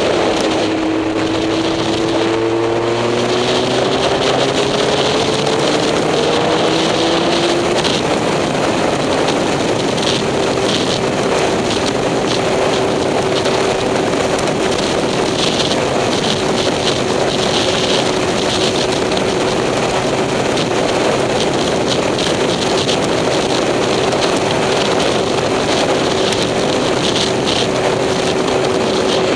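Vehicle engine running under way, rising in pitch over the first several seconds as it accelerates, then holding a steady note at cruising speed, with wind rushing over the microphone.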